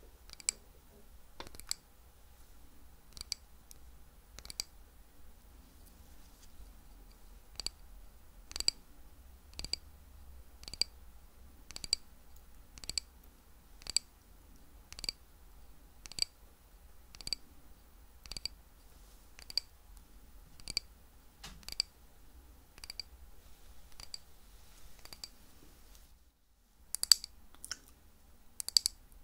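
Close-miked chewing of crunchy sweets: a crisp crunch about once a second, pausing briefly early on and coming quicker and louder near the end.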